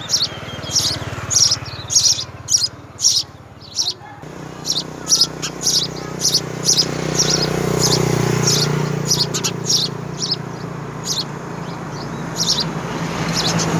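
Small birds chirping repeatedly in short, high chirps, about two or three a second, over a steady low hum.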